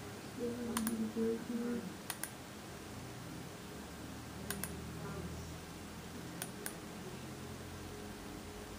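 Light clicking at a computer, a few clicks in quick pairs spaced a second or two apart, over low room noise.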